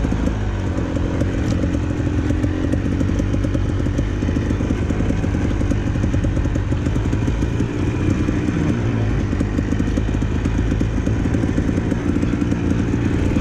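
Dirt bike engine running at low revs while the bike rolls downhill on the brakes, its pitch dipping and picking up slightly a couple of times.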